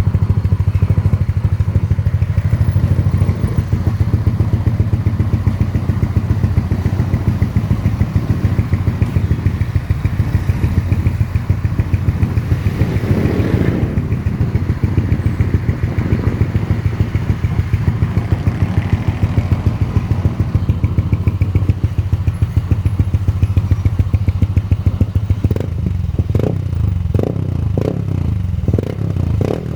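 Yamaha NMAX scooter's single-cylinder engine, bored up to 180cc, running at a steady idle through an aftermarket racing exhaust pipe. The exhaust swells briefly about halfway through, and the beat turns uneven near the end.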